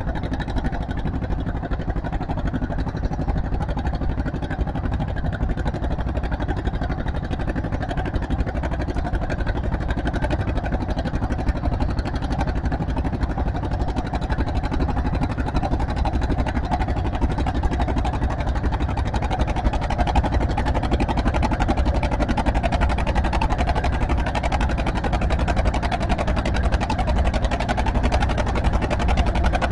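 Tractor engine running steadily, getting a little louder over the second half.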